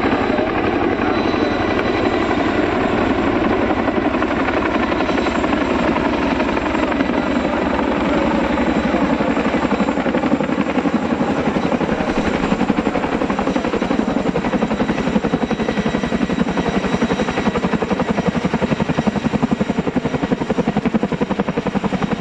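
Chinook tandem-rotor helicopter flying a low display, its rotor blades beating in a steady, rapid chop with the turbines running beneath it.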